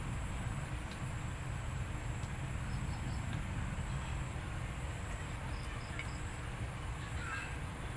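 Steady low background rumble with faint, high insect chirps in short groups of two or three, and a few soft clicks.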